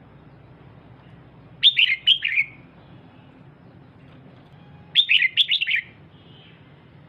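Female red-whiskered bulbul calling: two short phrases of quick, down-slurred chirps about three seconds apart.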